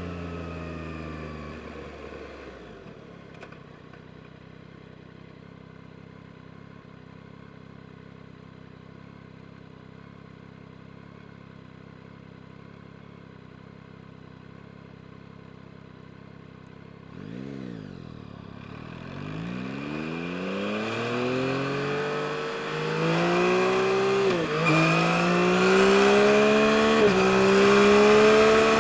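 Yamaha MT-09 SP's inline three-cylinder engine slowing down, then idling steadily for about fourteen seconds. After a short blip of the throttle it pulls away, the revs climbing through two upshifts and the engine growing louder.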